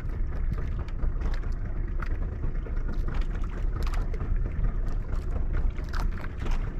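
A fishing boat at sea: a steady low rumble with wind and water noise on the microphone.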